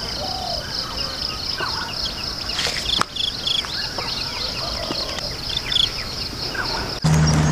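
Insects trilling steadily in a high, rapidly pulsing drone, with scattered short bird chirps and one sharp click about three seconds in.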